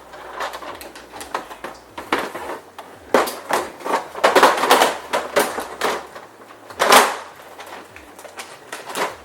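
A plastic refrigerator drawer being slid and worked back into its runners: irregular clattering, scraping and knocks, busiest a few seconds in, with one sharp knock about two-thirds of the way through.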